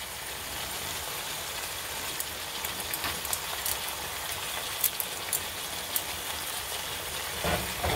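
Crab masala frying in oil in a stainless steel pan: a steady sizzling hiss with scattered pops and crackles. The masala has begun to release its oil, the sign that the crab roast is cooked.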